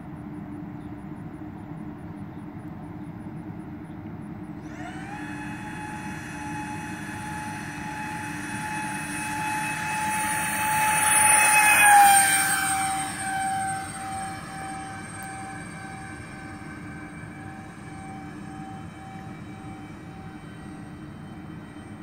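Electric ducted fans of an RC Airbus A330-600 model airliner whining at takeoff power. The whine comes in about five seconds in and grows louder as the plane approaches. Its pitch drops as it passes, about twelve seconds in, and it then fades steadily.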